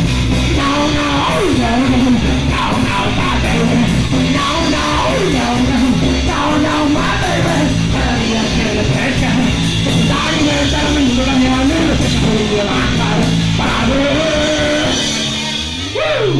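Punk rock band playing live: distorted electric guitar, bass and drums with crashing cymbals, under a sung melody line.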